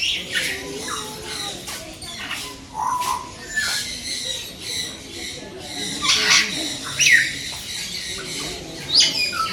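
A flock of caged birds chattering and squawking, with many overlapping high calls and sharp squawks that swoop down in pitch. The loudest squawks come about six, seven and nine seconds in.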